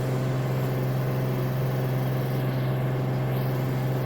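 Samsung AddWash front-load washing machine spinning its drum at steady high speed in the final spin, a constant low hum with a whirr over it that holds without change.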